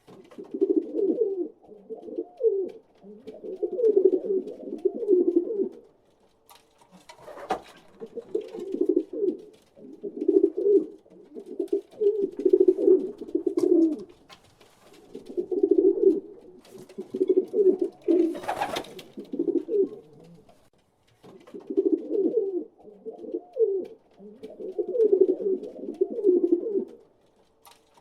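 Pigeons cooing in repeated low phrases a few seconds long with brief pauses, overlapping calls from several birds, with a couple of short sharp flutters or knocks among them.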